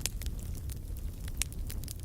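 Firewood burning in a fire, crackling and popping irregularly over a low steady rumble, with a sharp pop right at the start and another about a second and a half in.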